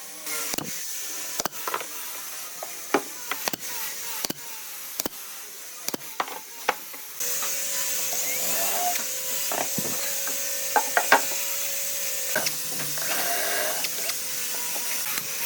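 Woodworking sounds: a series of sharp taps and knocks on wood for the first half, then a steady hissing machine-like noise sets in, with a few more knocks over it.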